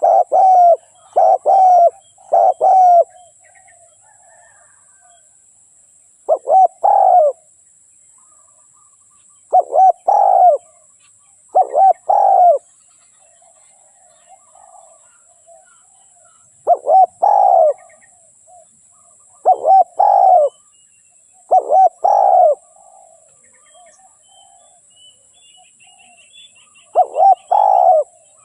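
Spotted dove cooing in short phrases of a few low coos each. The phrases come in a quick run at the start, then with gaps of a few seconds, then bunch up again near the end. Faint chirps of small birds can be heard between the phrases.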